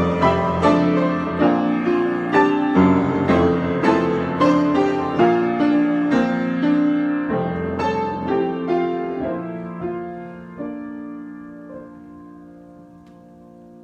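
Solo piano improvisation: a flowing run of struck notes and chords that thins out about ten seconds in, leaving a last chord held and fading away near the end.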